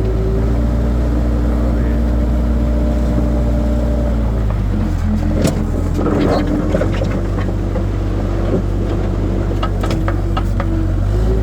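Skid steer engine running steadily, its pitch dropping about four and a half seconds in, with several short knocks and clanks through the middle.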